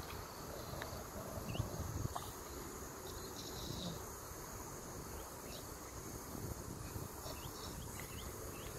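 Outdoor ambience of a steady high insect drone, with scattered short bird chirps throughout.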